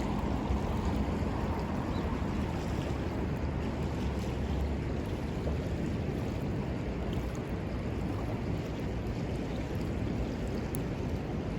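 Steady rushing of river water, with a few faint crackles from the wood fire.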